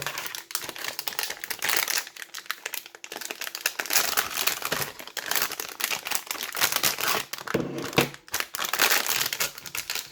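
Protective packaging wrap being handled and pulled off a small boxed radio transceiver, with continuous crinkling and rustling made up of many small crackles.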